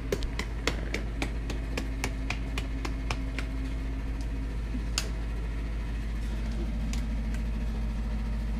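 Nissan GT-R R35's built twin-turbo V6 idling steadily after a fresh oil fill, while it is checked for leaks. A series of light regular ticks, about three or four a second, sounds over it during the first half and thins out later.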